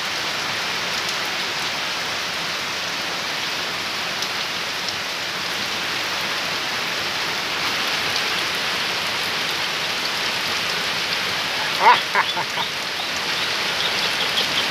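Steady heavy rain pouring onto a yard and a wooden railing, with a brief call from an Amazon parrot about twelve seconds in.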